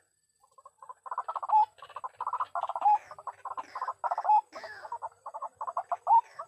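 White-breasted waterhen calling: fast runs of harsh, croaking notes repeated phrase after phrase, each phrase often ending in a short upward-sliding note.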